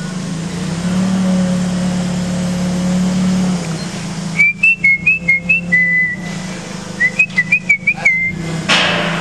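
A vehicle engine runs steadily. Two runs of short, high whistled chirps break in, one about four and a half seconds in and another about seven seconds in, each ending on a longer note.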